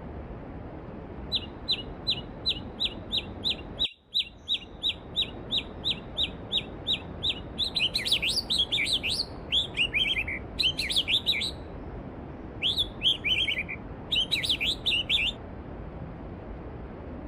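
Steady rush of stream water with a songbird singing: first a quick run of high, downward-sliding notes repeated about three or four times a second, then faster, tumbling twittering phrases. The water noise drops out abruptly for a moment about four seconds in, while the song carries on.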